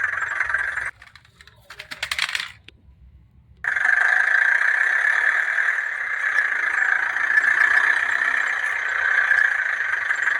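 Toy car running, a steady high whirr of its small motor and gears. It stops about a second in, gives way to a brief clatter of plastic clicks, then starts again after about three and a half seconds and runs steadily on.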